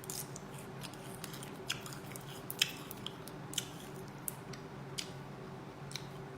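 Close-up eating sounds: a person chewing and biting crunchy fried cicada nymphs, with sharp irregular mouth clicks and crackles over a steady low hum.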